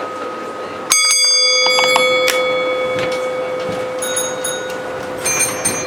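Bells struck and ringing on, typical of signal-box block bells sending codes on a model railway layout. There is a sharp strike about a second in and a few quick strikes near the end, over a steady ringing tone.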